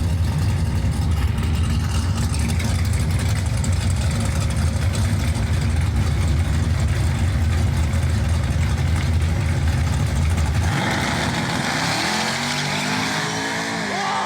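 Drag truck engine running with a loud, steady low rumble. About eleven seconds in the rumble stops, and a hiss with rising and falling tones takes over.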